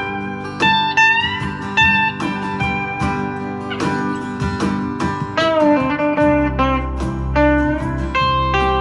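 Electric guitar with single-coil pickups played through a JHS NotaKlon overdrive pedal, switched on, into a Vox AC10 amp, playing lead lines with several bent notes. A backing track with drums and bass plays underneath.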